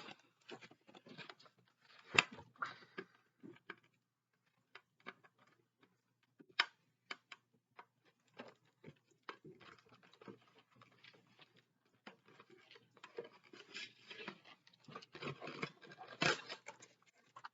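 Scattered clicks, taps and crinkly rustling as a model car's packaging is handled and pried at in a struggle to get it open. It goes quieter in the middle, and the rustling gets denser over the last few seconds.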